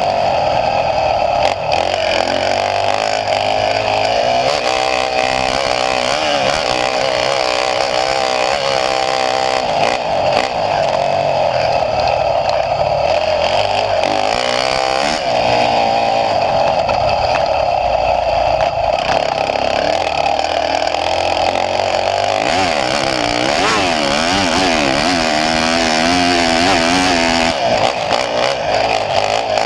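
Motocross dirt bike engine being ridden hard, revving up and down without a break, its pitch rising and falling repeatedly with throttle and gear changes.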